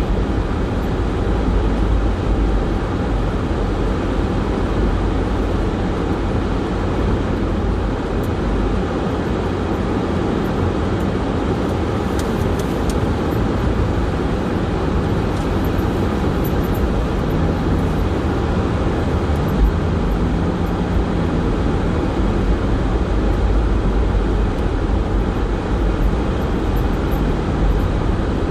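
Steady road and engine noise inside a car's cabin while driving, with a strong low rumble from the tyres and engine.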